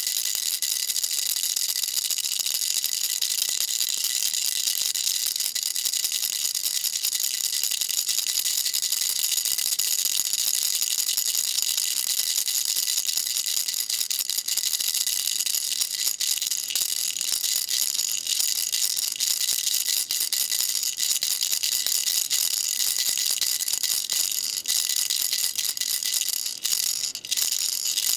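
Baby rattle shaken continuously: a dense, steady, high-pitched stream of small rattling clicks that briefly thins near the end.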